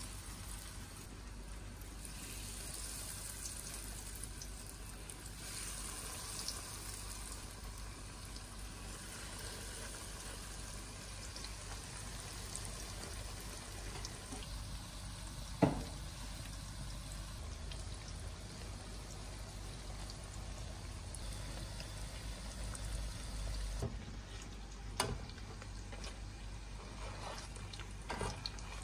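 Breaded chicken cutlets shallow-frying in oil in a pan: a steady sizzle. A single sharp knock about halfway through, and a few lighter clicks near the end.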